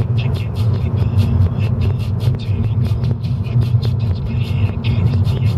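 Steady low rumble of a car driving, with music over it keeping an even beat of about four ticks a second.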